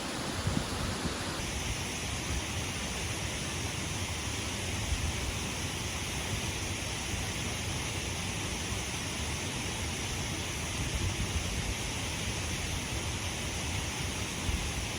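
Steady rushing of a waterfall's falling water, its tone shifting abruptly about a second and a half in.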